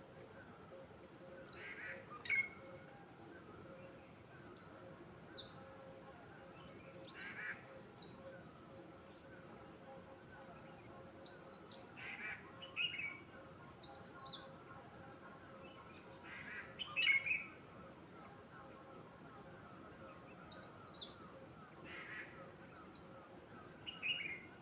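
A songbird singing short, high phrases, repeated every two to three seconds.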